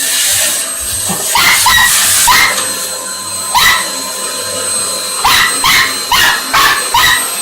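A dog barking in a string of short, high barks, about a dozen in clusters, at a running vacuum cleaner. Under the barks the vacuum's motor keeps up a steady whine and hiss.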